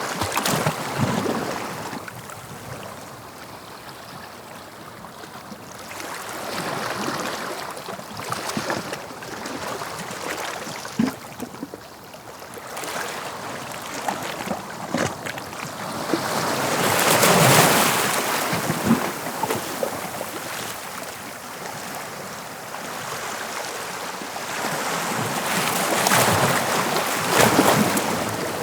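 English Channel surf: waves breaking and washing up the shore in slow surges that rise and fall every eight to ten seconds, the loudest near the middle and near the end.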